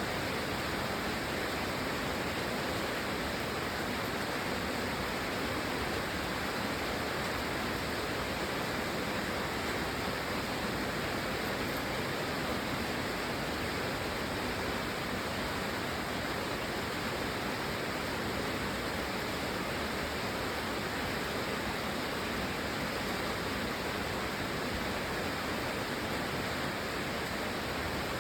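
Steady rain, an even unbroken hiss with no separate drops, thunder or changes in level.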